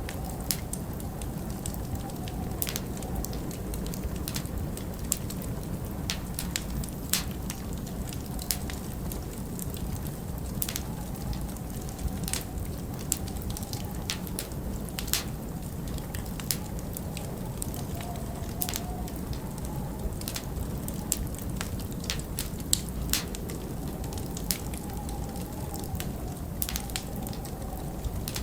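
Log fire in a stone fireplace crackling, with irregular sharp pops, several distinctly louder, over a steady low rush of wind.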